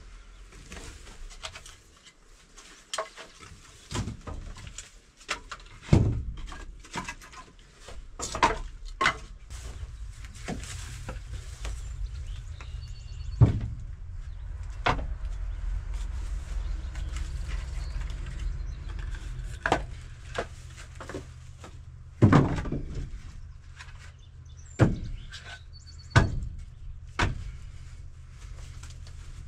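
Irregular knocks and thuds, several of them sharp and loud, over a low steady rumble through the middle.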